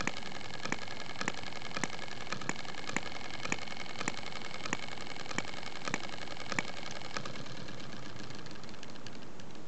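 Model hit-and-miss engine with a 1/2-inch bore, fired by a spark plug, running on camp fuel: sharp firing pops come at uneven gaps of about half a second to a second over a steady mechanical whirr as it skips firing strokes between power strokes. The pops stop a little after seven seconds in.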